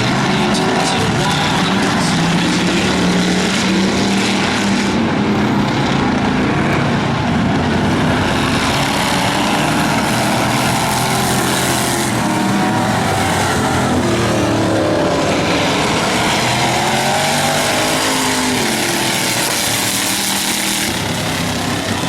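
Several demolition race cars' engines running hard together, their pitch rising and falling as they rev up and back off.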